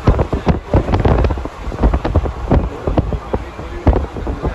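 Express passenger train running at speed, heard from an open coach doorway: wind buffets the microphone over a low rumble and an uneven clatter of the wheels on the track.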